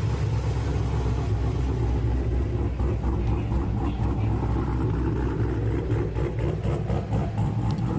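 Supercharged LS7 V8 of a custom muscle car running with a steady, low, burbling exhaust rumble that sounds like it's farting.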